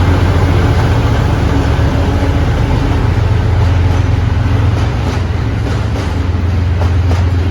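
Diesel locomotive engine running with a loud, steady low rumble as a train goes by. A little past halfway, sharp clicks begin to come irregularly, as the wheels pass over the rail joints.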